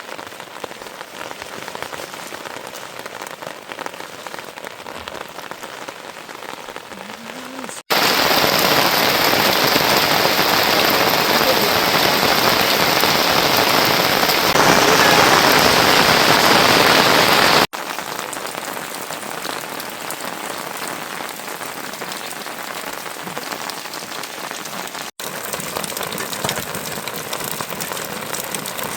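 Steady rain falling, heard in several back-to-back clips; the rain is much heavier and louder from about 8 to 18 seconds in.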